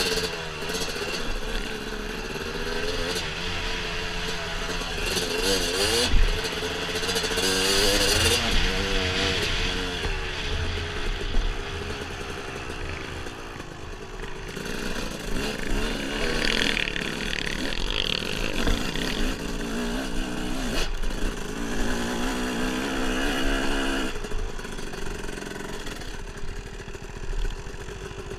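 Dirt bike engine running along a trail, its pitch rising and falling over and over with the throttle, with a couple of short louder knocks along the way.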